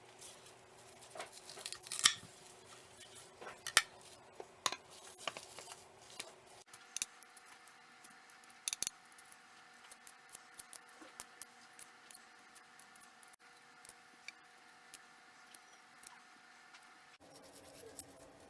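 Kitchen food-prep handling sounds: scattered sharp clicks and taps of utensils and dishes, a few much louder than the rest, over a faint steady hum that changes abruptly twice.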